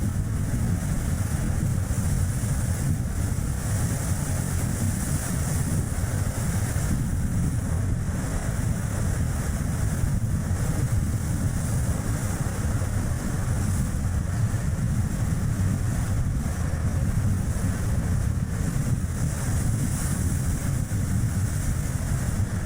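Strong wind rumbling steadily on an action camera's microphone, over the tyre and road noise of a small car driving.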